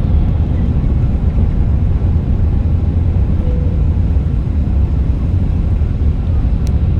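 Airbus A380 cabin noise: a steady, loud low rumble of engines and airflow heard from inside the passenger cabin. A single sharp click sounds near the end.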